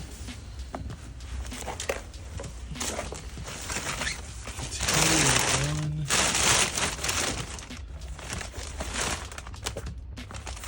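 Items being handled and rummaged through: uneven rustling with scattered light knocks and clicks, loudest as a hissing rustle about five seconds in, over a steady low hum.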